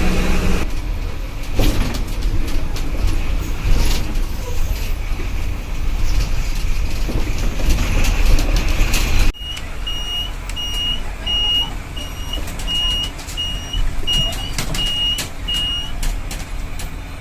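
Tata bus running on the road, with steady low engine and road rumble and frequent rattles and knocks; a horn blast ends just after the start. About halfway through the sound cuts abruptly to quieter rumble with a high electronic beep repeating about twice a second.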